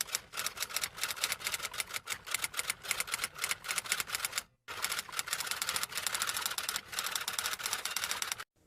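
Rapid typing: keys clacking in quick, uneven succession, with a brief break about halfway through.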